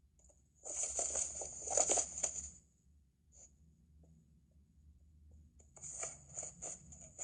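Two bursts of scratchy rustling, each about two seconds long, the second starting near the end.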